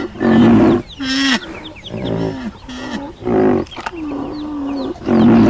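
A string of animal calls: low, drawn-out calls that bend in pitch at the ends alternate with about three loud, harsher calls, with short high chirps above them.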